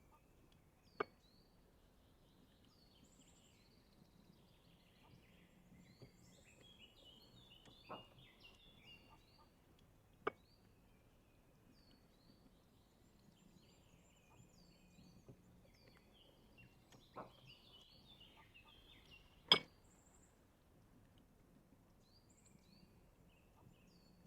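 Small birds chirping and chattering in the background, with short repeated high calls. Five sharp clicks or knocks stand out over them, the loudest about three-quarters of the way through.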